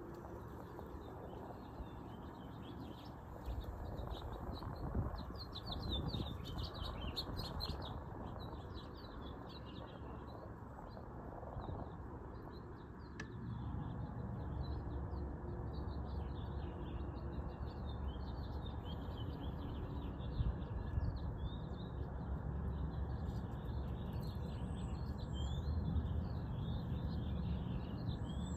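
Many small birds chirping and twittering, over a steady low rumble of noise that grows louder about halfway through.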